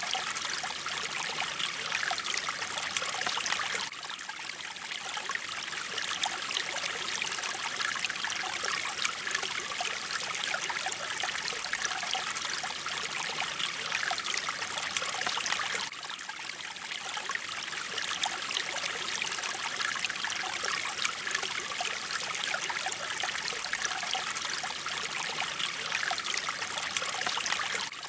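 Mountain stream running over rocks: a steady bubbling, trickling rush with no pauses. The level dips slightly twice, about 4 and 16 seconds in.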